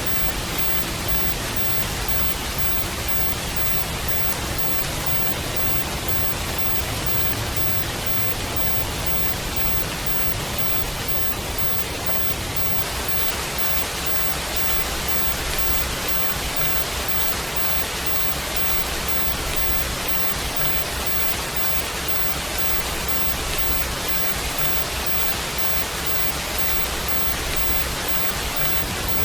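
Steady, even rain noise with no breaks or separate drops standing out.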